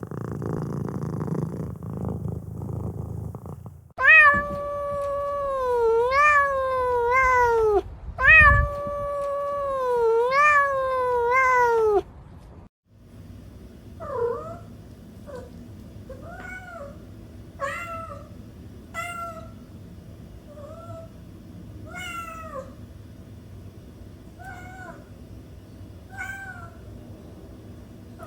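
A cat purring for a few seconds, then four loud, long, drawn-out meows that waver and fall in pitch, then after a brief cut about a dozen short, quieter, higher kitten mews spaced a second or so apart.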